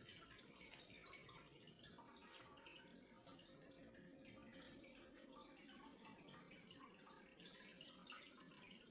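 Near silence: faint room tone with a low steady hum and many soft scattered ticks, like light drips.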